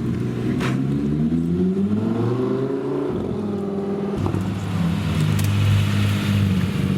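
Car engine accelerating, its pitch rising for about two seconds before dropping back, then running at a steady note.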